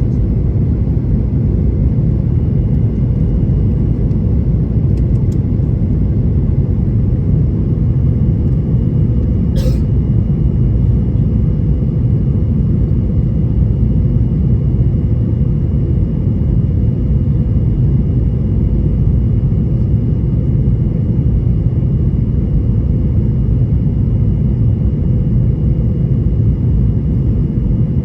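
Steady low rumble of a Boeing 737-800 airliner cabin in flight, the noise of its CFM56 turbofan engines and rushing airflow, with a faint steady high whine above it. A brief sharp sound cuts through about ten seconds in.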